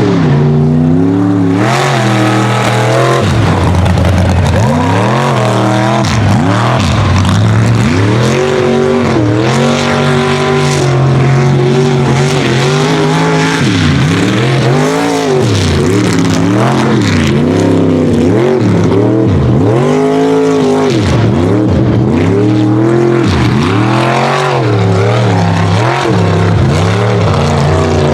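Unlimited-class mega truck engine racing under hard throttle, its pitch climbing and dropping again and again as the throttle is worked on and off.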